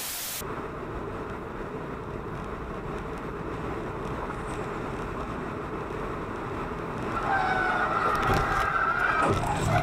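Steady road and engine noise of a car as picked up by a dash cam. About seven seconds in it grows louder and a wavering two-pitched tone sounds for about two seconds.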